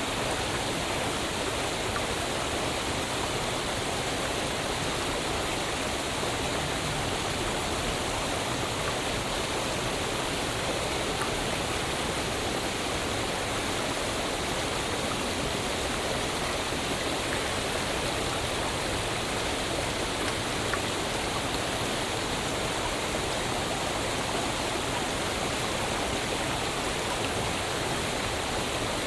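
Waterfall: water falling and rushing in a steady, even roar of noise that does not change.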